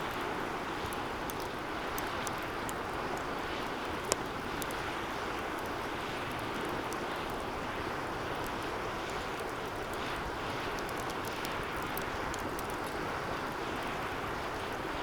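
Wood fire burning in a metal fire stand: a steady hiss of flames with frequent small crackles and pops, and one sharper, louder pop about four seconds in.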